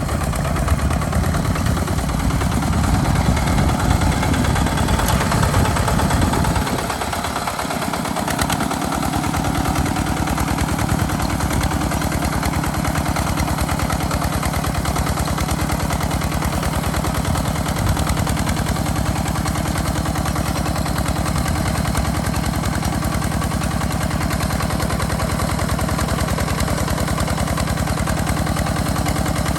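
Small diesel engine of a two-wheel walking tractor running with a fast, even chug while plowing. About seven seconds in its low end drops away briefly, then it settles back into a steady run.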